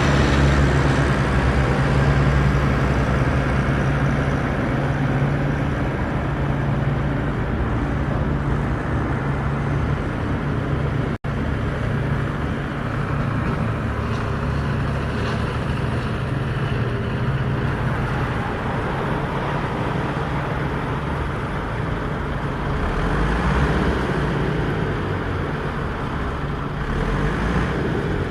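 Mahindra tractor's diesel engine running steadily under load while pulling a cultivator, with a brief dropout about eleven seconds in.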